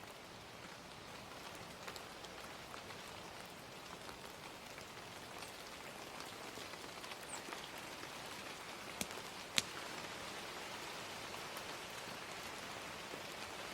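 Steady gentle rain with scattered sharp clicks, two louder pops about nine seconds in.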